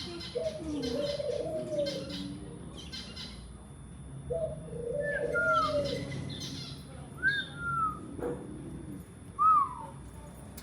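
Birds calling: bursts of high chirping, a lower warbling call twice, and several short downslurred whistles in the second half.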